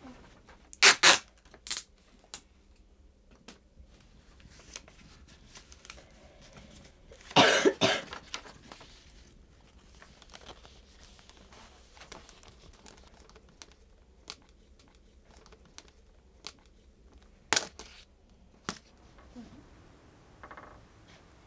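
Sticky tape being ripped off the roll in a few sharp rasping pulls, two quick ones about a second in, a longer one in the middle and another near the end, with light paper handling between them.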